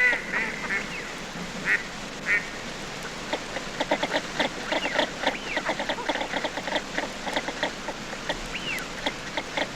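Shovelers calling with low grunts: a few calls in the first couple of seconds, then a long run of many short, quick calls with an occasional rising-and-falling call.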